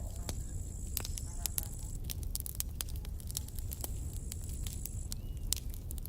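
Wood campfire crackling, with frequent sharp pops over a low steady rumble. A thin high whistle comes and goes twice.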